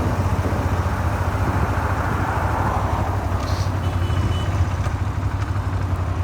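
Suzuki SV400 V-twin motorcycle engine running steadily. Its crankshaft was hand-dressed with abrasive after a spun connecting-rod bearing, and the owner says knocking from it only starts around 4000 rpm.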